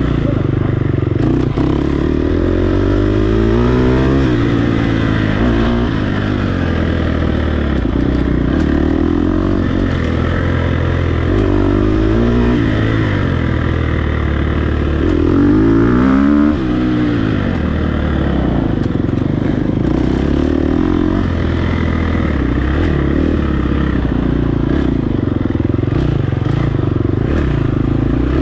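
Dirt bike engine ridden hard, its revs rising and falling again and again through the throttle and gear changes, with rattling knocks from the bike over rough ground.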